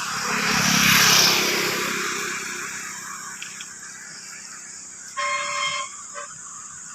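A vehicle passes, its noise swelling about a second in and fading away, then a horn sounds briefly a little after five seconds in, with a short blip after it.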